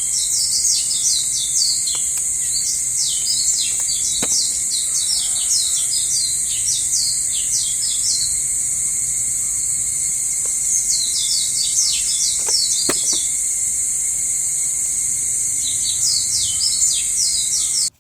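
Field ambience of a steady, high-pitched insect drone with birds chirping over it in rapid runs of short falling notes. The bird notes come in three stretches: through the first half, again about two-thirds of the way in, and near the end.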